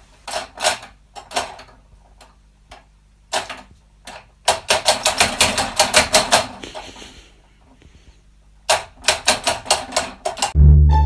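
A series of sharp clicks or taps: a few scattered ones at first, then two fast runs of about six clicks a second, the first about four and a half seconds in and the second near the end.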